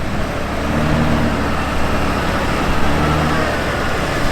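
Off-road truck engine running under a steady low rumble, its note swelling under throttle about a second in and again near three seconds in, as on a slow rocky hill crawl.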